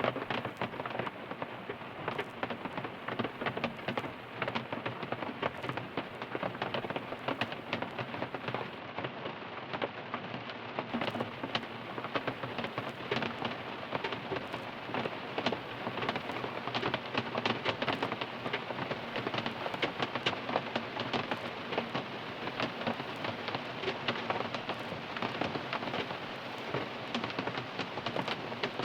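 Steady, heavy rain falling on a car's roof and windows, heard from inside the car: a dense wash of countless individual drop hits.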